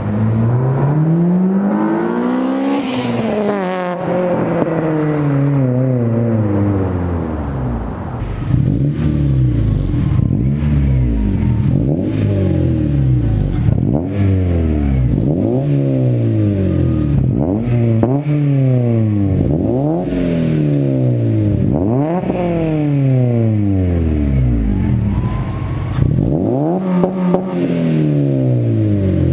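Acura RSX Type S 2.0-litre K-series four-cylinder with an aftermarket header and cat-back exhaust, revved over and over. The pitch climbs and falls back roughly every two seconds.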